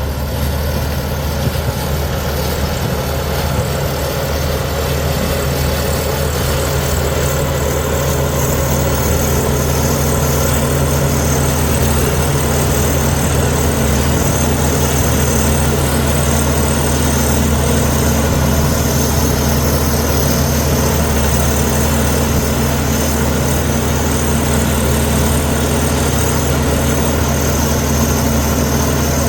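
Komatsu D61EX bulldozer's diesel engine running steadily, a little louder from about ten seconds in.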